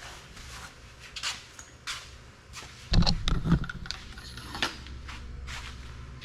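Rattling and knocking of metal things being handled, loudest in a cluster of knocks with a deep bump about three seconds in.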